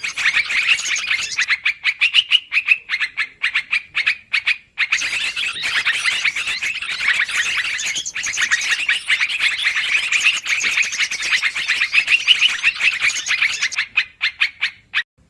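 Yellow-vented bulbul (trucukan) calling in an agitated, rapid chatter of sharp notes, as used to lure birds. The notes pour out almost without pause, with a brief gap about four and a half seconds in.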